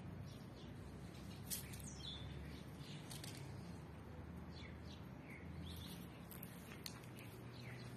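Faint chirping of small birds: a scatter of short, high notes that fall in pitch, with a few sharp clicks, over a low steady hum.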